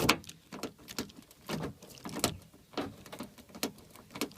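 Nissan Xterra door handle being pulled again and again with a string of sharp clicks and clunks, the loudest right at the start: the door is frozen shut and does not open.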